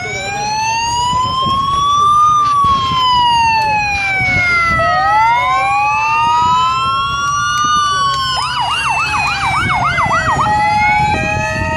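Vehicle siren wailing in slow rises and falls, switching about two-thirds in to a fast yelp, about three sweeps a second, then to a steady two-note hi-lo tone. A low rumble of vehicle engines runs underneath.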